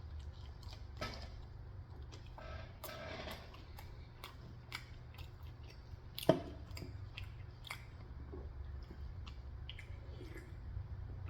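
A person chewing food close to the microphone, with wet mouth clicks and small crunches, one sharper click about six seconds in, over a steady low hum.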